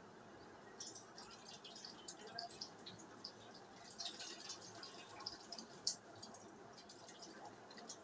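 Faint, quick high chirps of small birds, coming in scattered clusters from about a second in until about six seconds in.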